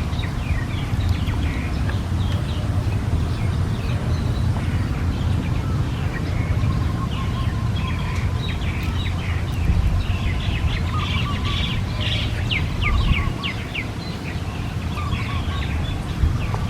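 Small birds chirping and twittering in many short, quick calls, busiest about two-thirds of the way through, over a steady low rumble.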